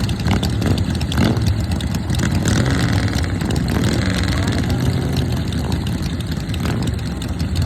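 Engines of pre-1945 cars or motorcycles running at low revs, a steady low rumble.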